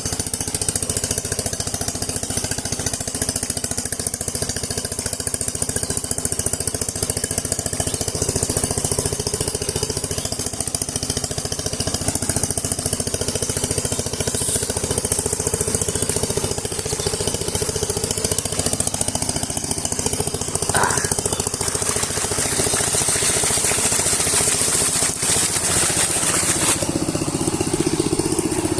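A Sifang power tiller's single-cylinder diesel engine running steadily with a fast, even knocking beat.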